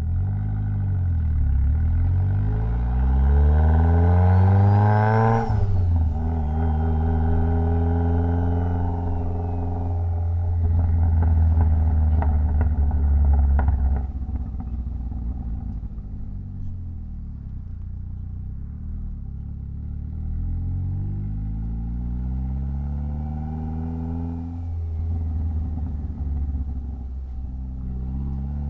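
Mitsubishi Lancer Evolution X's turbocharged 2.0-litre four-cylinder engine accelerating through the gears: the revs climb for about five seconds and drop sharply at an upshift, run on at a steadier pitch, then climb and drop again near the end. A faint whistle rises with the revs on the first pull.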